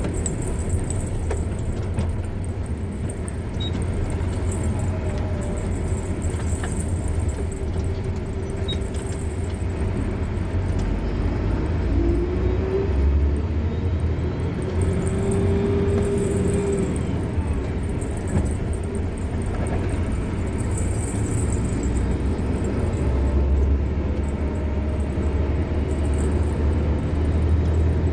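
Car driving along a road: a steady low rumble of engine and tyres, with a hum that rises and then holds for a few seconds about twelve seconds in.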